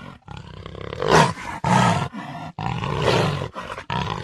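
Jaguar roaring: about four calls with short breaks between them, the loudest about a second in.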